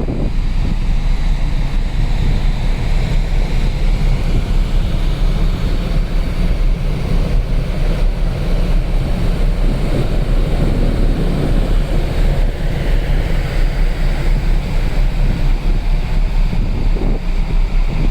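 Wind buffeting the microphone on a ferry's open stern deck, over the steady rush of the ship's wake and engine rumble.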